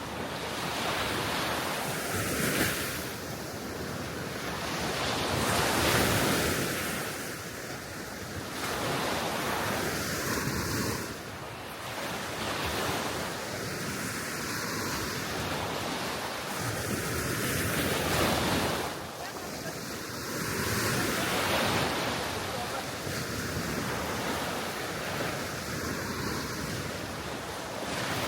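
Small waves washing onto the shore of a calm sea, swelling and ebbing every few seconds, with wind buffeting the microphone.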